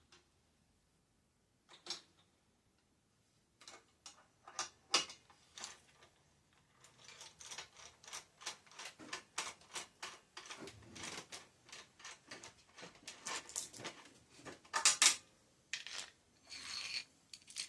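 Metal tools and bicycle parts being handled: an irregular run of short clicks, taps and scrapes, with sharper knocks about five seconds in and again about fifteen seconds in.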